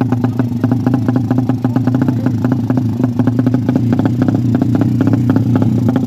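Suzuki Satria FU drag-race motorcycle, bored to 155 cc, with a Fantera racing exhaust: its single-cylinder four-stroke engine runs at a steady fast idle with a rapid, uneven crackle of exhaust pulses while being tuned.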